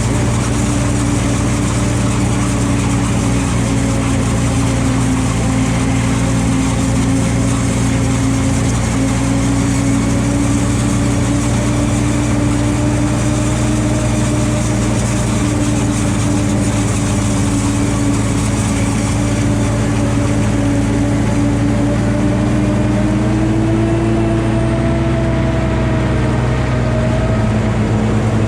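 Valtra T234 Direct tractor's six-cylinder diesel engine running steadily, its pitch rising slightly about three quarters of the way through.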